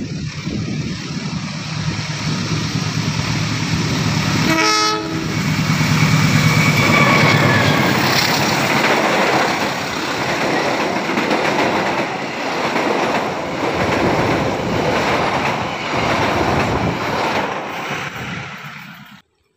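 Diesel-hauled passenger train passing close on the adjacent track: one short horn blast about five seconds in, then the loud, steady noise of the coaches going by, which fades near the end and cuts off suddenly.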